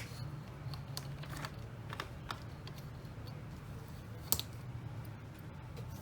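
Cross-stitching on aida fabric: an irregular string of small ticks and rustles as the needle pierces the fabric and the floss is drawn through, with one sharper click about four seconds in, over a low steady hum.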